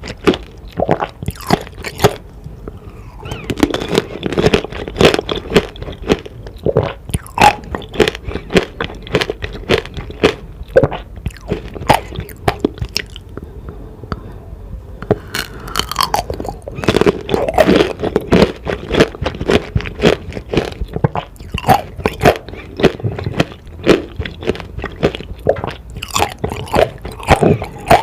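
Close-miked biting and chewing of tanghulu, fruit coated in hard candied sugar: the glassy sugar shell cracks and crunches between the teeth in many quick, sharp crackles, bite after bite.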